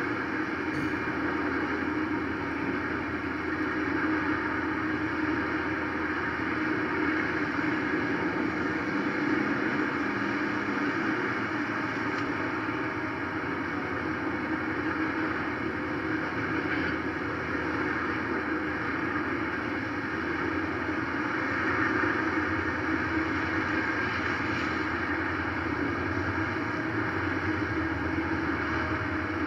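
Steady rumbling noise of a freight train's cars rolling past through a grade crossing.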